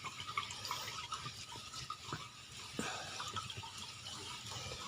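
Water circulating through a koi pond filter chamber, trickling and bubbling faintly with small scattered drips and pops.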